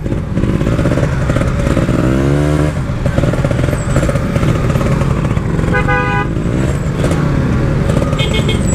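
Two-stroke motorcycle engine running under way, rising in pitch as it revs up once about two seconds in. About six seconds in, a vehicle horn toots briefly.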